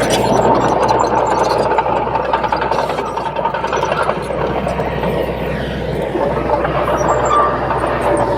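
Crawler bulldozer's diesel engine working steadily, with a dense mechanical clatter over a low hum and a faint thin squeal.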